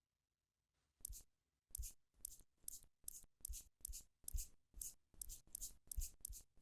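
Makeup applicator patting and blending thick cream onto a watermelon: a run of short, soft taps, about two to three a second, beginning about a second in.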